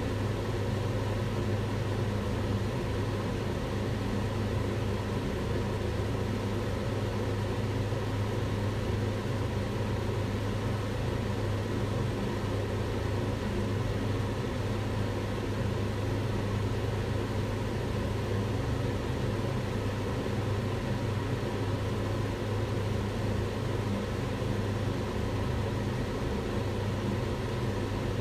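Kitchen range hood extractor fan running steadily: an even rushing whoosh over a low motor hum.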